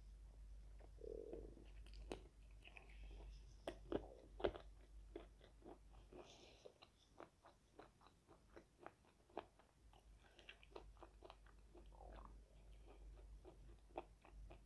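Faint crunching and chewing of a breaded fried chicken wing: the crisp coating crackles in many quick clicks, loudest about four seconds in.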